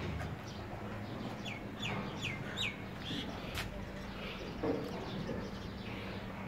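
A bird chirps four times in quick succession, each note falling in pitch, over a steady low hum. A sharp click follows, and a brief low sound comes a little later.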